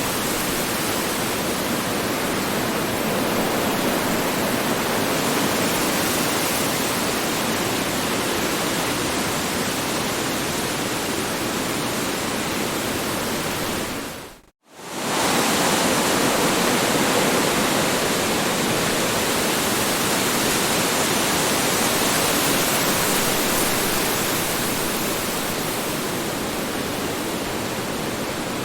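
Strong wind blowing steadily, a continuous rushing noise. About halfway through it fades out to silence for a moment and comes straight back.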